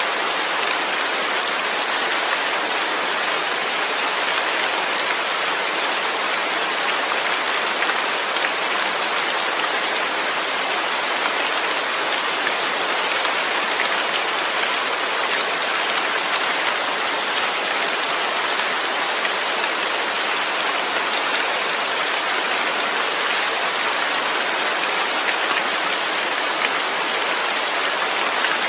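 Steady, even rain falling on surfaces.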